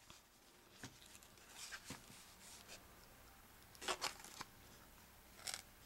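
Faint rustles and soft taps of a cardstock explosion box being handled, a few short scattered sounds with the loudest pair about four seconds in.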